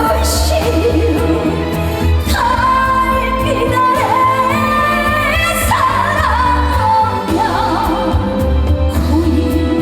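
A woman singing a gugak-flavoured trot song live with full band backing, her voice held in long wavering notes over a steady bass line.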